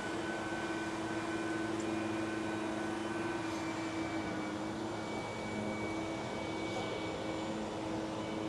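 A motor whining at a steady high pitch after spinning up, with a fainter hum and hiss beneath it.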